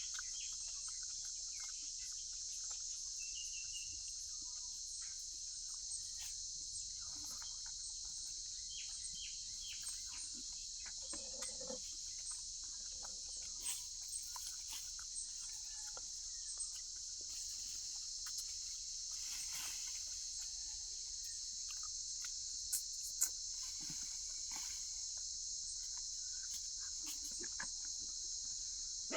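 Steady high-pitched insect chorus, a continuous shrill drone, with scattered faint clicks and a few brief chirps over it.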